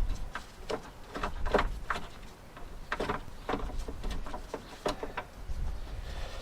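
Irregular clicks, taps and knocks of hands and tools working the lock and linkage inside a Land Rover Discovery 2 rear door, a dozen or so sharp ticks spread unevenly, over a low rumble.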